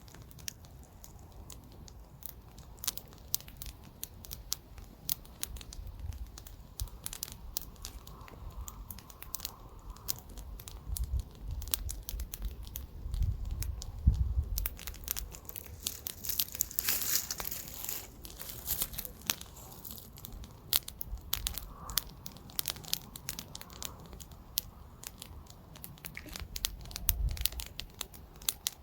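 Wood campfire crackling and popping, with sharp snaps scattered throughout and a thicker flurry of crackles about halfway through. Light wind gusts rumble low now and then.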